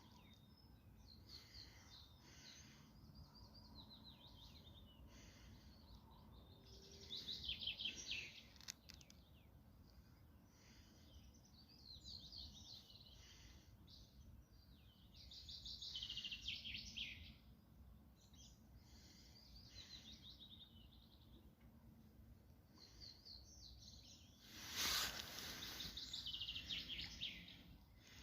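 Songbirds singing in short chirping phrases every few seconds over a faint, steady low background noise. About 25 seconds in comes a brief rustle that is louder than anything else.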